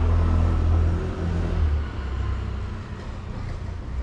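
A motor vehicle's engine running with a steady low hum that drops off about halfway through.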